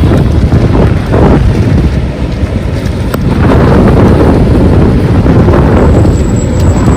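Strong gusty wind buffeting the microphone in a rainstorm, a loud low rush that swells and eases, with heavy rain under it.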